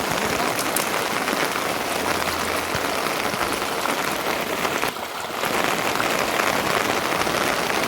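Steady rain falling, an even hiss that drops away briefly about five seconds in.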